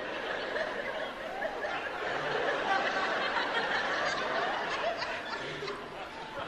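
Audience laughing steadily, many people at once.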